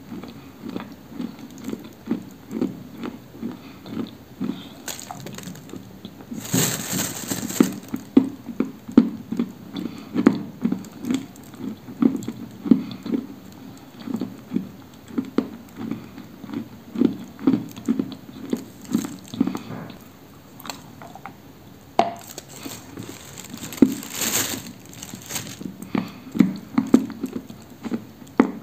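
Close-miked chewing of a dry chunk of apricot-coloured edible clay, a steady rhythm of about two to three chews a second. Two louder, crisper crunches come about seven seconds in and again near the end.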